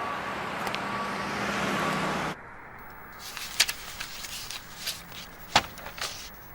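A dense rising whoosh of noise with a faint steady hum under it, cut off abruptly about two seconds in, followed by a scatter of sharp clicks and taps.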